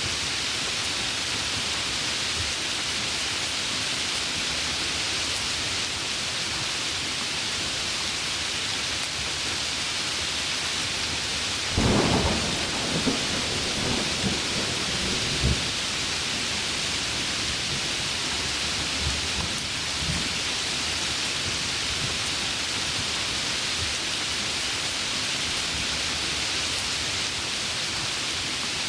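Heavy rain falling in a steady hiss, with a sharp thunderclap about twelve seconds in followed by a few seconds of crackling rumble, then a fainter rumble a few seconds later.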